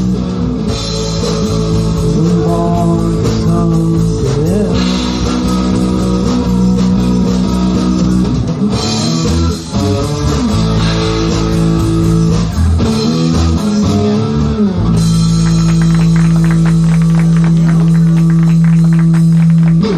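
Live rock band playing electric guitar and bass. For the last few seconds a long low note is held under a fast repeating pattern, and the music cuts off at the end.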